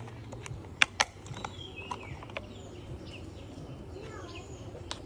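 Toy truck wheels clicking as they are pushed and adjusted into place by hand, with two sharp clicks about a second in and a few lighter ticks after. Birds chirp in the background.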